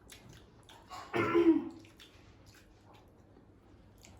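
A brief, loud mouth or throat sound about a second in, lasting about half a second, with faint small clicks around it.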